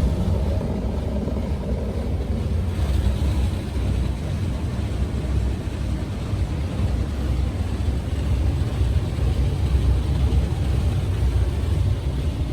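Automated truck wash running, heard from inside the truck's cab: a steady low rumble with a hiss of spray over it.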